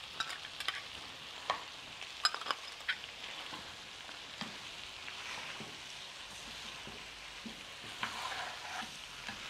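Pork ribs and vegetables frying in a cazuela with a steady sizzle. A spatula clicks and scrapes against the pot as chipotle chile is stirred in, with a flurry of strokes in the first few seconds and more near the end.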